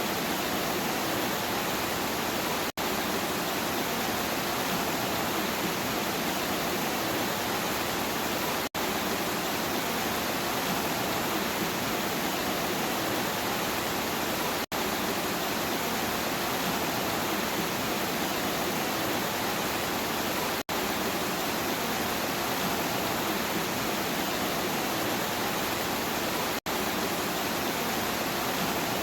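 Steady, even rain noise with no thunder, dropping out for an instant about every six seconds, the mark of a short recording looped.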